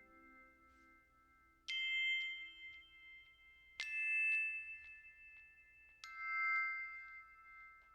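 Three struck bell-like chime notes, about two seconds apart, each ringing on and slowly fading.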